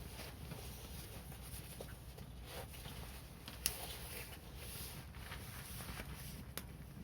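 Wood fire crackling: scattered small pops and ticks, with one sharper crack about three and a half seconds in, over a low steady rumble.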